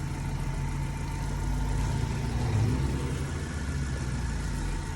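A car engine idling steadily, a low hum with a thin steady whine above it.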